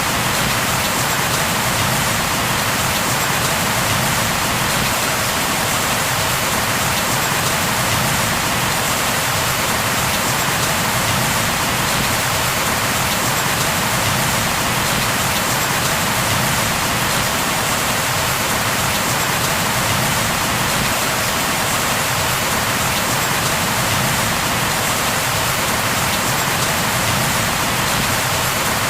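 Steady heavy rain falling on a surface, an even, unbroken hiss of drops.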